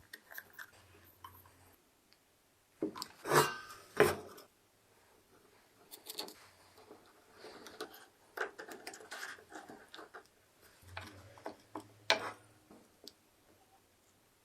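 Hand work on small parts: scattered knocks and clacks of tools and parts being handled, with softer rubbing and scraping in between; the loudest knocks come about three and a half, four and twelve seconds in.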